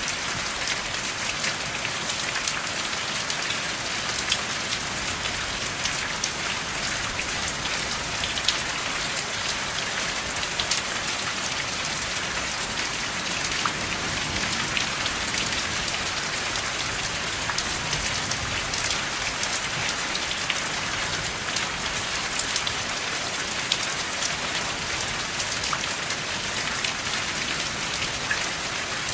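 Steady, even rain with no thunder, many individual drops ticking sharply through the hiss.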